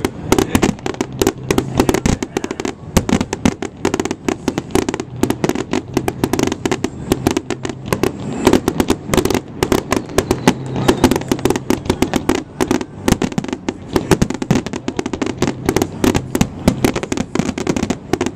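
Fireworks display in a rapid, unbroken barrage: many sharp bangs and crackles each second, with no let-up.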